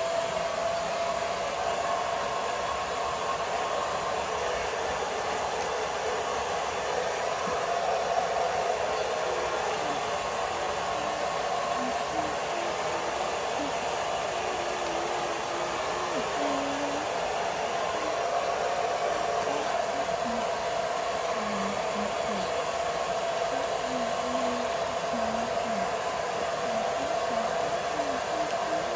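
A small motor and fan whirring steadily, with a steady whine over the rushing air.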